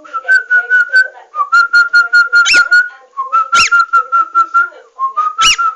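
A pet bird whistling: runs of fast repeated notes on one pitch, each run starting a little lower and rising, broken three times by a loud, sharp chirp.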